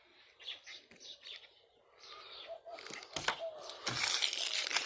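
Birds chirping faintly in the first second or so, then rustling and crinkling as paper-wrapped firecracker packs are handled, with a few sharp clicks.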